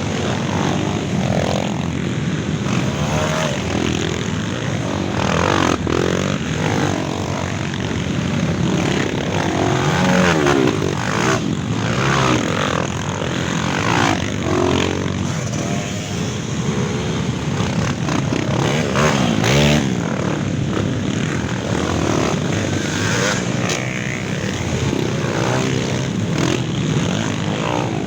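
A group of trail motorcycles (dirt bikes) revving and riding past one after another. The engine notes rise and fall and overlap with no break.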